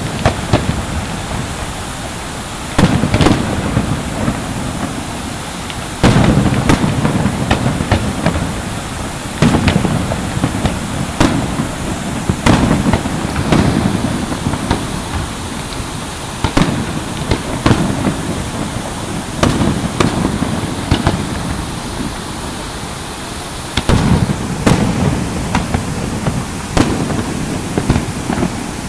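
Aerial fireworks exploding in a steady succession of sharp booms, every second or two, over continuous crackling and rumbling.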